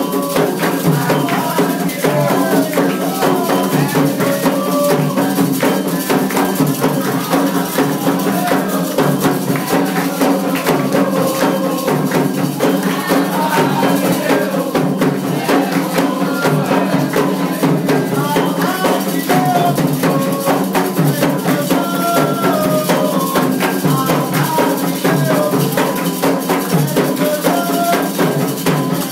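Candomblé ritual music: atabaque hand drums beating a steady, dense rhythm with rattles shaking, and voices singing a chant over it.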